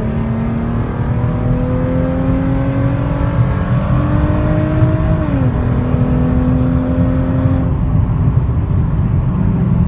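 Hyundai Genesis engine pulling hard under acceleration, its pitch climbing steadily, with a drop in pitch about five seconds in as it shifts up. It then holds a steady note and falls away near the end as the throttle is lifted, over constant road rumble.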